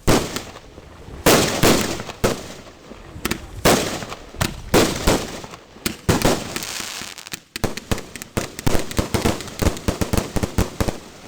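Aerial fireworks going off: big shell bursts bang roughly once a second, each with a rolling tail. About seven and a half seconds in, a fast, dense crackle of many small reports follows.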